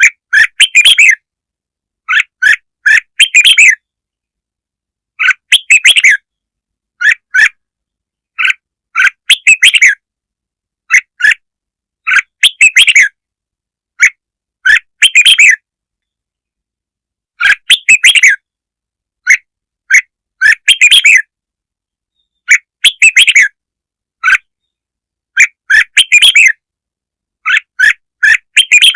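Red-whiskered bulbul song: short bursts of quick, loud chirping notes, each burst a second or less, repeating every one to two seconds with silent gaps between. A lure call recording, played to draw and provoke bulbuls.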